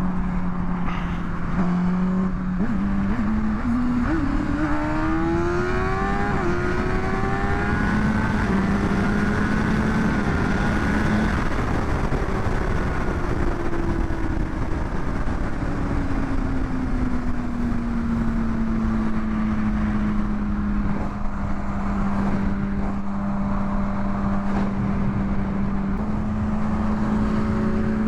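Honda CBR600RR inline-four engine accelerating, its pitch climbing in steps as it shifts up through the gears, then easing off about halfway through and settling to a steady cruise, with constant wind rush on the helmet-mounted mic.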